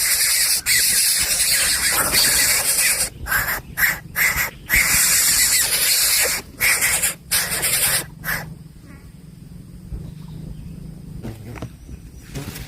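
Coucal nestling making its loud hissing begging noise, broken by several short pauses, stopping about eight seconds in.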